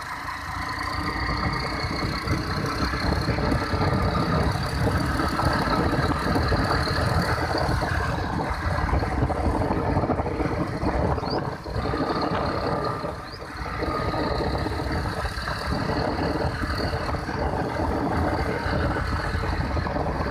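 Motorcycle running on the road during a ride, a fairly steady engine and road noise with two brief dips near the middle.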